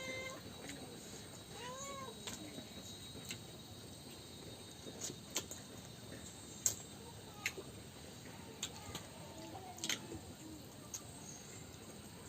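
A domestic cat meowing: a drawn-out meow at the very start and another arched meow about two seconds in. Scattered sharp clicks follow from about five to ten seconds in.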